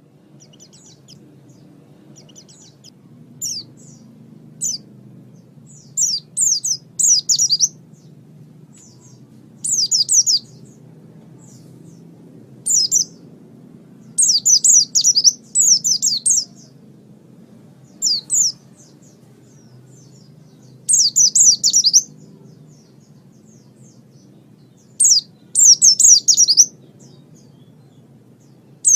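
A small songbird chirping in short bursts of three to five quick, high, downward-sweeping notes, the bursts coming every two to four seconds, over a faint steady low hum.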